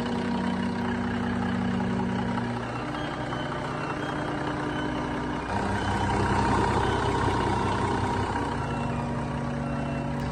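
Cummins NTA 855 turbocharged inline-six diesel engine running steadily. Its hum shifts to a new pitch about every three seconds, and it is slightly louder a little past the middle.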